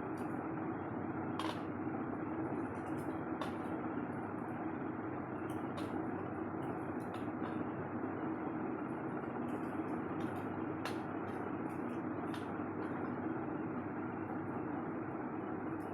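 Steady hum with about six sharp, crisp cracks scattered through it, from pieces of pressed white salt being crushed.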